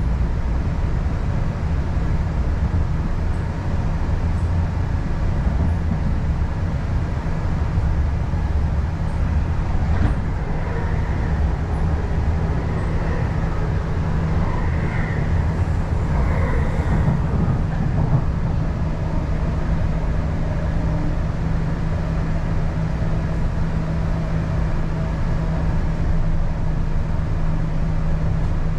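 Running noise heard inside an MTR East Rail line R-Train electric multiple unit under way between stations: a steady low rumble of wheels on track with a constant low hum from the traction equipment.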